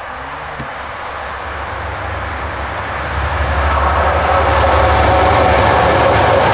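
Class 57 and Class 47 diesel locomotives on a train approaching, a low engine throb and the rumble of the train swelling loud from about three seconds in as they draw near.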